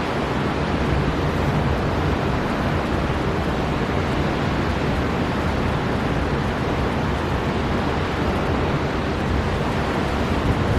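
Storm wind and heavy sea surf: a steady, dense rush of noise, heaviest in the low end, swelling briefly near the end.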